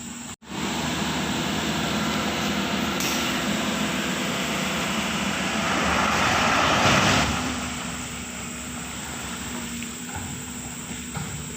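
Heavy road-work machinery running, a steady diesel engine sound with added noise that grows loudest for a second or so just past the middle.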